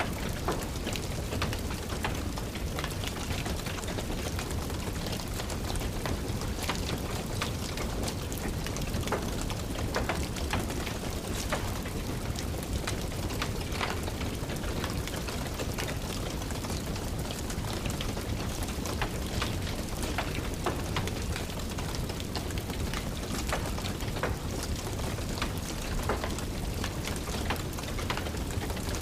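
Steady rain with a wood fire crackling, its sharp pops and clicks scattered irregularly over the even hiss.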